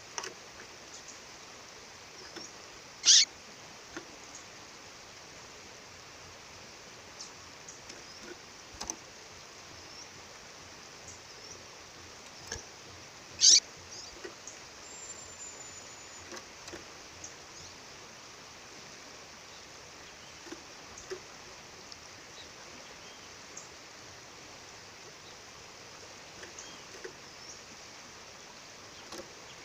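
A female bird giving two loud, short calls, each a quick downward sweep, about ten seconds apart, with faint high chirps scattered between them over the steady rush of a waterfall.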